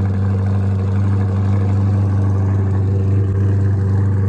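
Ford Mustang's engine running steadily at a constant low speed, with a deep, even note.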